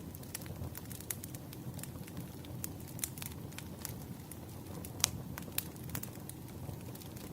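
Wood fire burning, with a steady low rumble of the flames and irregular sharp crackles and pops, one louder pop about five seconds in.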